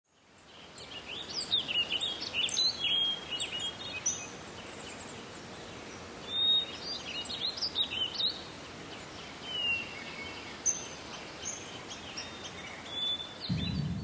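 Several small birds chirping and whistling in quick, overlapping calls over a steady hiss of woodland background. The sound fades in at the start.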